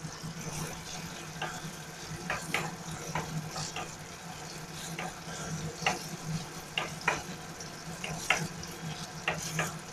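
Small cubes of tofu frying in shallow oil in a nonstick wok: a steady sizzle with scattered pops and crackles, and the clicks and scrapes of a spatula stirring them. A low steady hum runs underneath.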